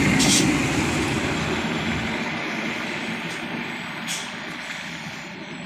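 A heavy truck driving past, loud at first and fading steadily as it moves away, with a short sharp sound about four seconds in.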